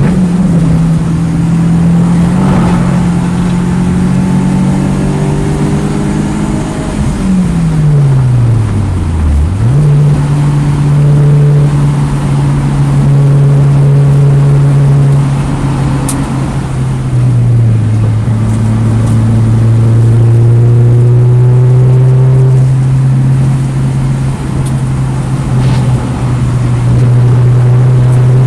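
2009 Mini Cooper S's turbocharged 1.6-litre four-cylinder engine running hard on track, its pitch mostly steady with slow climbs. About seven seconds in the revs fall away for about two seconds, then jump sharply back up, and they dip once more briefly around the middle.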